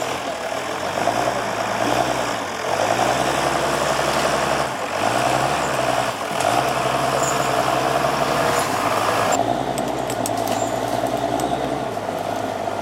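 Heavy diesel machinery engine running, its note dropping and picking up again several times as the load changes. The higher hiss cuts off suddenly about three-quarters of the way through.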